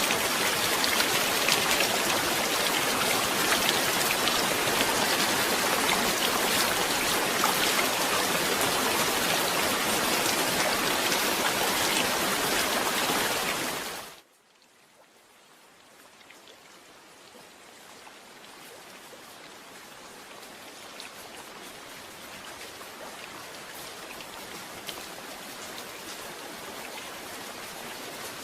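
Heavy rain falling steadily, a dense hiss of many drops. About halfway through it fades out quickly to near silence, then slowly fades back in, softer than before.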